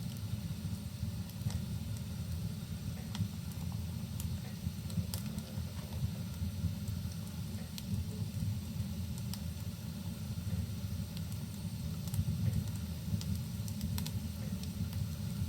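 Wood fire crackling in a fireplace, scattered sharp pops over a steady low rumble, with an even hiss of rain.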